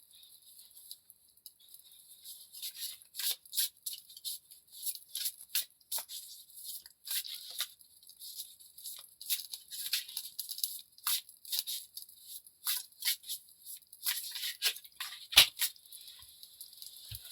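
Tarot cards being shuffled by hand: an irregular run of crisp rustles and slaps, with one sharper knock near the end.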